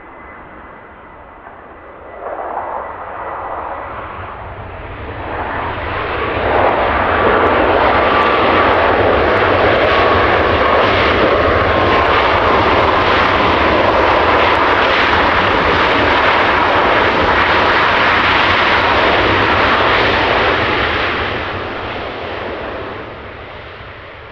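Boeing 737 MAX 8's CFM LEAP-1B jet engines as the airliner passes close by: the noise builds over the first several seconds, holds loud for about fourteen seconds with a faint whine, then fades away.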